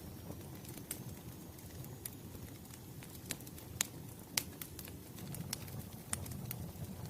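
Wood fire crackling: irregular sharp pops and snaps over a low, steady rumble, the loudest pops coming in the middle.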